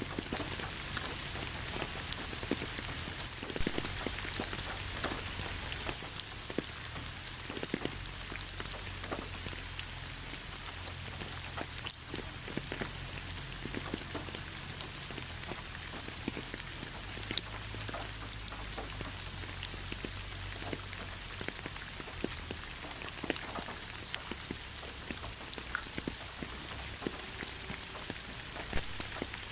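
Steady rain falling, an even hiss with many scattered drops pattering and ticking on surfaces, over a low rumble.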